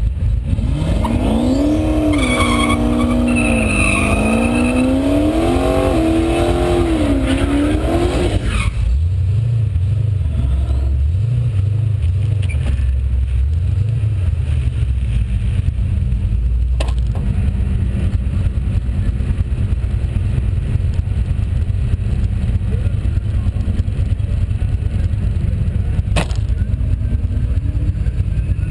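Fox-body Mustang's 5.0 V8 revving at full throttle, its pitch rising and falling several times. About nine seconds in the sound cuts abruptly to a heavy low wind rumble on the car-mounted camera at speed, which buries the engine.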